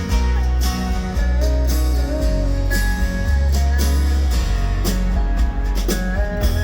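Live acoustic country band playing the instrumental intro of a song: strummed guitars over a steady bass line, with a held lead melody line on top.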